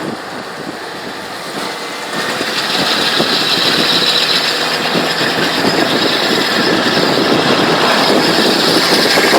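Metallic grinding from a 2000 Jeep Cherokee XJ on the move, growing louder about two seconds in and then running on. The noise comes only in drive while moving, after about half an hour of driving, on a Jeep with a freshly fitted 4.5-inch lift; the owner rules out the U-joints.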